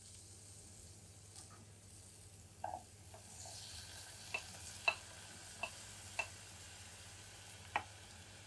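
Lentils frying in a nonstick pot with a soft sizzle that grows louder about three and a half seconds in as chopped tomato, green chilli and carrot are scraped in off a plate. A wooden spatula taps sharply against the plate several times.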